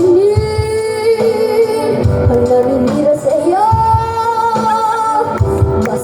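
A young girl singing with a backing track, holding long notes with vibrato over a steady drum beat; about three and a half seconds in her voice climbs to a higher, sustained note.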